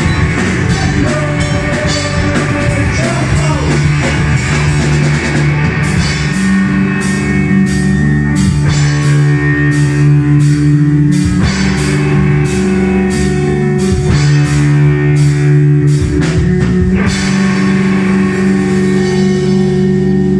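Live rock band playing: distorted electric guitar chords held over a steady, regular drum beat.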